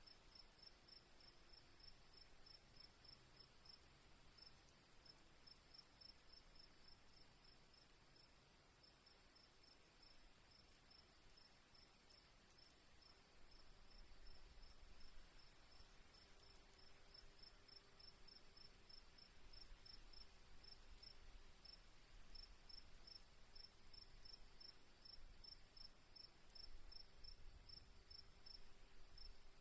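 Faint crickets: a steady high-pitched trill with a regular chirp pulsing about four times a second over it.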